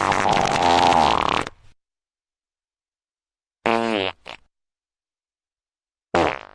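Fart sound effects played one after another with silence between: a long one ending about a second and a half in, a shorter one in the middle, and a brief one at the end.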